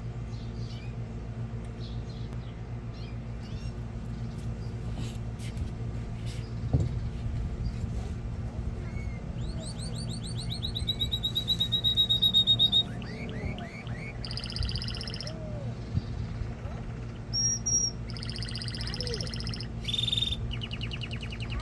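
Male canary singing: after scattered soft chirps, a fast trill of rapidly repeated rising notes runs for about three seconds, then shorter rolls and a held high note near the end. A steady low hum lies underneath.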